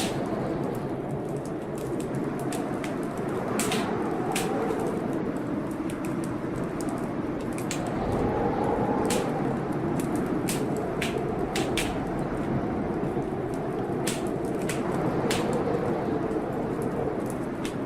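Wood fire crackling, with irregular sharp pops and snaps, over a steady storm noise that swells and eases every few seconds.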